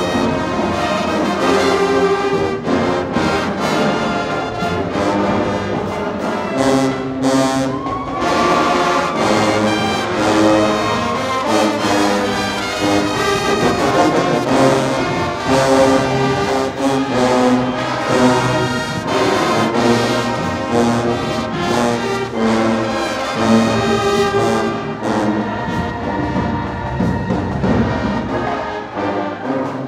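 High school marching band playing, its brass section holding loud chords over drum hits.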